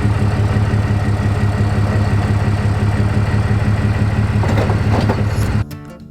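A large engine running steadily at a low, even pitch. It cuts off abruptly near the end, giving way to acoustic guitar music.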